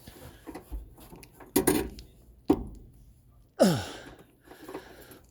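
Three sudden clunks about a second apart. The last one carries a creak that falls sharply in pitch.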